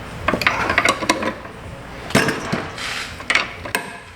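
Metal clinks and clatter of hand tools on metal A/C line fittings, a run of sharp irregular clicks in the first second and a few more near the middle and end.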